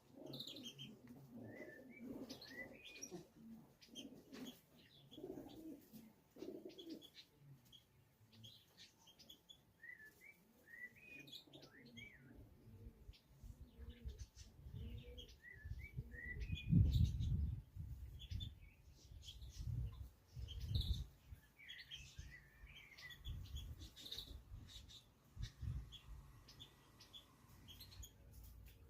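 Pigeons cooing at the loft while small birds chirp repeatedly in the background. About halfway through comes a run of loud, low flapping thumps of pigeon wingbeats.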